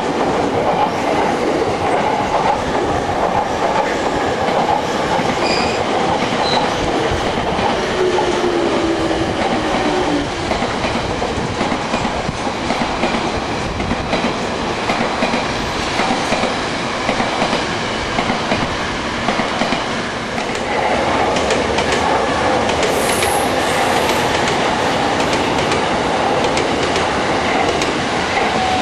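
Electric trains passing on a multi-track line: a steady rumble of steel wheels on rail with fast clickety-clack over the rail joints. It grows louder about twenty seconds in, as a commuter train runs close by.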